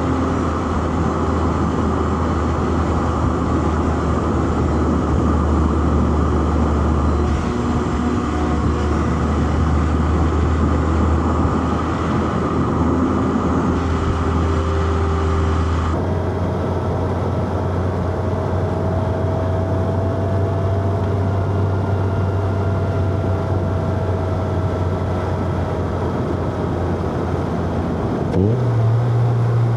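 Inline-four car engine running at steady revs under tyre and road noise. The sound changes abruptly about halfway through. Near the end the engine's pitch rises sharply and holds higher.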